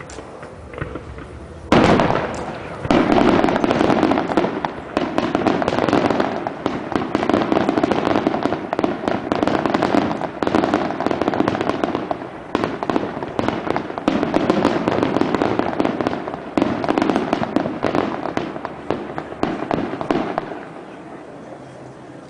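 Fireworks display: after a quieter moment, a sudden loud burst opens a dense, continuous barrage of shell bursts and crackling, which eases off near the end.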